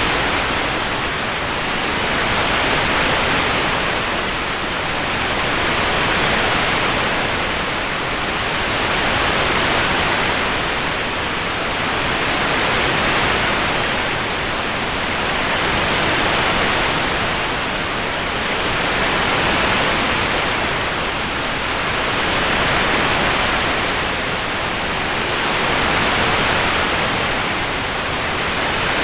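Relaxing rain-sound track: an even, steady hiss that swells and eases gently about every three seconds.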